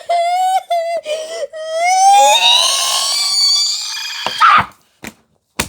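A child's voice wailing in one long, high-pitched held note that slides slightly upward, then turns into a shrill scream and cuts off after about four and a half seconds. Two sharp clicks follow near the end.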